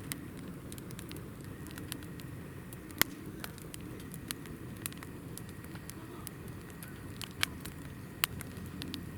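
Campfire of hinoki (Japanese cypress) logs burning with a steady low rustle and scattered sharp pops and crackles, the loudest pop about three seconds in and a couple more near the end.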